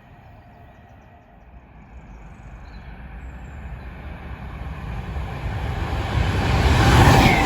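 A train approaching along the main line, its rail noise and rumble growing steadily louder over several seconds until it is nearly at its loudest near the end.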